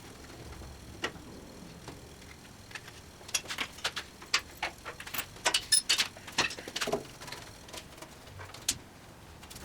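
Irregular sharp clicks and knocks of hand tools and metal saw parts being handled during disassembly, a few at first, then a quick flurry through the middle, thinning out near the end.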